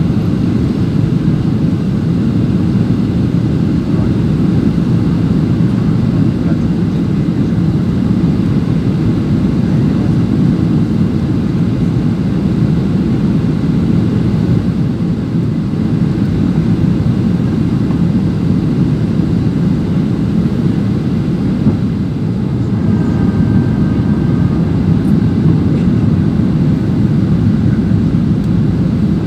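Steady loud cabin noise of an airliner, an even rushing drone of engines and airflow heard from inside the passenger cabin. A brief faint tone sounds about 23 seconds in.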